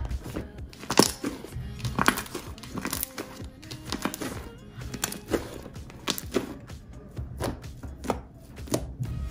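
Slime being handled, squeezed and poked: a run of sharp clicks and pops at irregular intervals, about one a second, over background music.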